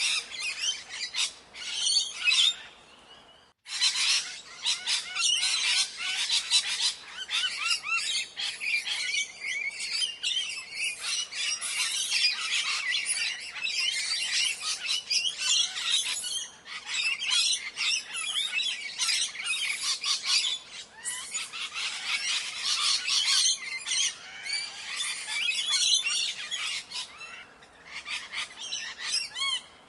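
A flock of Indian parrots calling, with many shrill, squawking calls overlapping continuously. The calling drops away briefly about three seconds in, then starts again abruptly.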